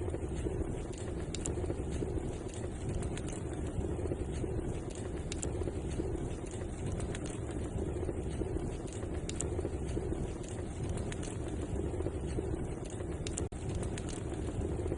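Wood fire burning in a fireplace: a steady low rushing with scattered sharp crackles and pops. The sound cuts out for an instant near the end.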